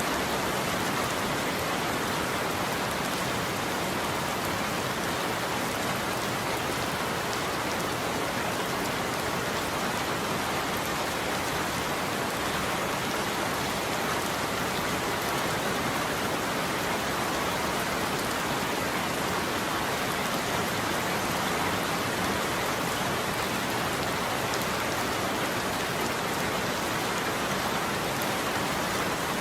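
Steady heavy rain falling on a roof: an even, dense patter with no thunder.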